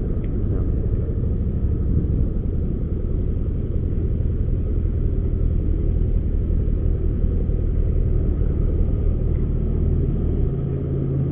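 Motorcycle engine running under way, with a steady low rumble of engine and wind noise. Near the end the lowest part of the rumble drops away and the engine note sits a little higher.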